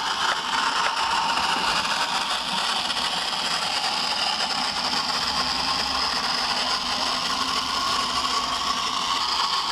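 Small electric motor of a Danbury Mint Peanuts Christmas Wonderland toy train running steadily as the train backs up around its track. It runs slower than it should, which the owner puts down to the motor having seized up a little after years in its box.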